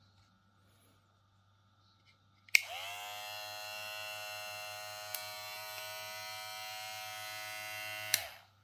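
Moozie HG1901 cordless hair clipper switched on with a click about two and a half seconds in. Its motor spins up quickly to a steady, even whine, then it is clicked off about eight seconds in and runs down.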